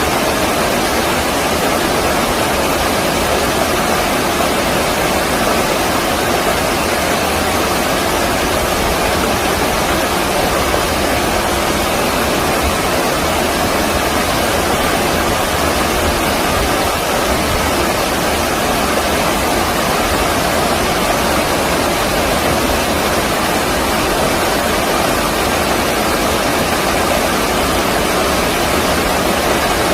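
Stream water rushing steadily in a loud, even, unbroken rush.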